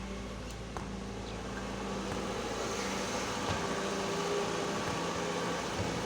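Excavator's diesel engine running steadily, getting a little louder about two seconds in.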